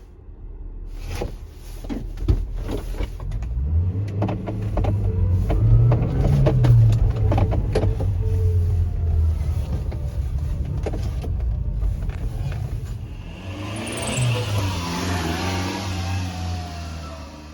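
Subaru Sambar mini truck's small engine running, its pitch rising and falling as it is revved or driven, with scattered clicks and a hissing noise near the end.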